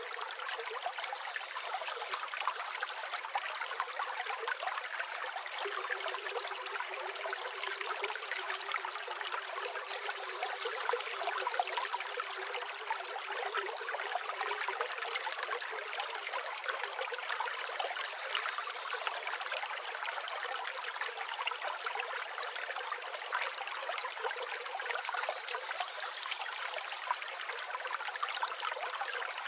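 River water flowing and babbling over stones, a steady trickling rush with no breaks.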